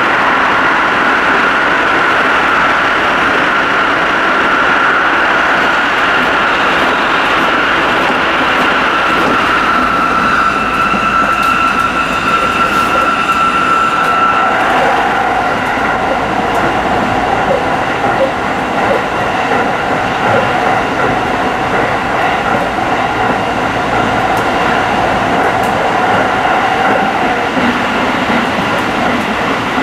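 Tsukuba Express electric commuter train running at speed, heard from inside the cab: a steady rumble of wheels on rail with a high steady whine. It runs through a tunnel, then out onto open track, and about halfway through the whine drops to a lower pitch.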